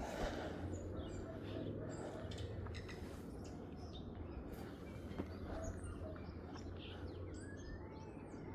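Scattered bird chirps and calls, short and faint, some gliding in pitch, over a steady low background rumble.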